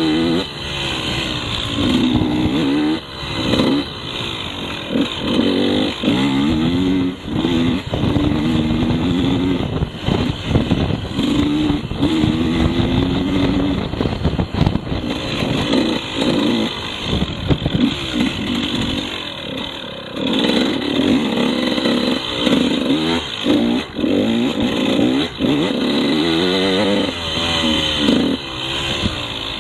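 KTM 150 two-stroke enduro motorcycle engine being ridden, its pitch rising and falling over and over as the throttle is opened and closed, with scattered knocks.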